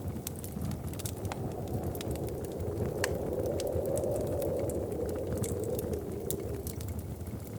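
Wood fire crackling in a fireplace: scattered sharp pops and snaps over a steady low rumble. A low rushing sound swells and fades through the middle, like a gust of winter wind.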